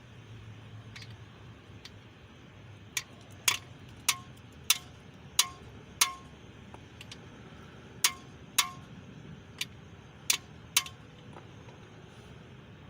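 Metal tapping on a small-block Chevy 350 engine part during teardown: about eleven sharp strikes, each with a short metallic ring. They come in two runs, one starting about three seconds in and one starting about eight seconds in.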